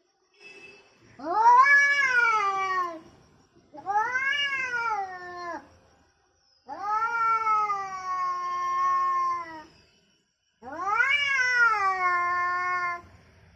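Angry domestic cat yowling: four long, drawn-out calls, each rising and then falling in pitch.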